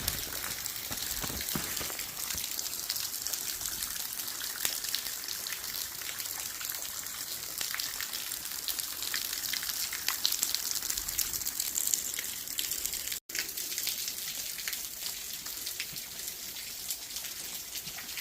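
Small woodland waterfall splashing steadily into a creek, a constant rushing hiss with small clicks over it. The audio breaks off for an instant about 13 seconds in.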